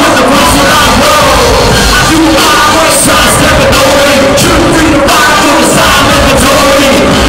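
A live rap-rock band playing loud, with shouted, half-sung vocals over drums, bass and guitar. Cymbal hits come at a regular beat.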